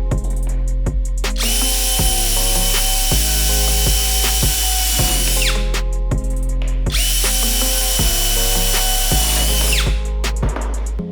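Power drill running twice, about four seconds and then about three, its whine sliding down as it stops each time, over background music.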